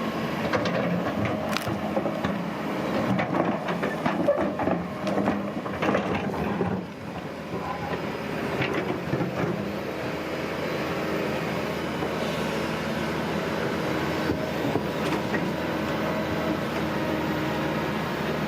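Heavy tracked earthmoving machine running steadily, with sharp metallic clanks and rattles over roughly the first seven seconds, then a smoother, even running sound.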